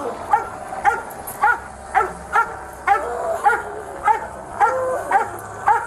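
Police dog barking repeatedly and hard, about two barks a second, with a few longer whining notes between the barks.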